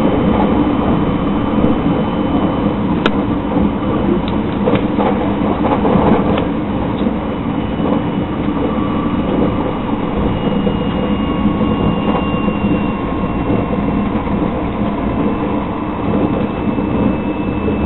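Inside a JR 681/683-series limited express electric train running at speed: a steady rumble and hiss, with a few sharp clicks about three to six seconds in.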